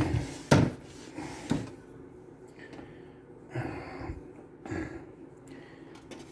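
Handling noises as a cassette tape mechanism is fitted back into its slot in a cassette deck's chassis. There are a few sharp knocks in the first second and a half, then softer rustling and scraping.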